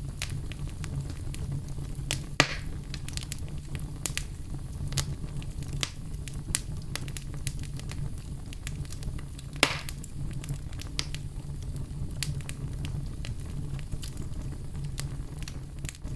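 Fire burning in a fireplace: a steady low rumble with frequent sharp crackles, and two louder pops, one about two and a half seconds in and one near ten seconds.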